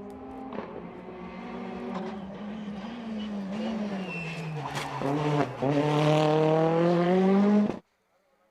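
Racing car engine at full throttle on a hill climb, its note wavering and sagging, then climbing after a quick shift about five and a half seconds in as it gets louder. It cuts off abruptly shortly before the end.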